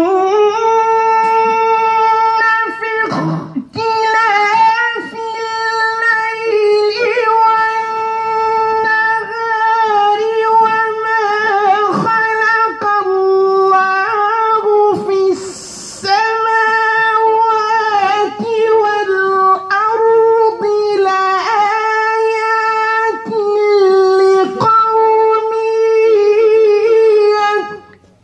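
A man chanting the Quran in a melodic recitation style: one voice holding long, drawn-out, wavering notes, with short pauses for breath about three seconds in and again around the middle.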